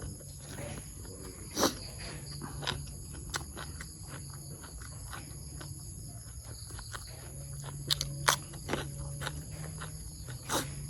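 Steady high-pitched insect chirring, likely crickets, over a low hum, with scattered sharp clicks and taps. A few of the clicks are louder: one about two seconds in, two close together about eight seconds in, and one near the end.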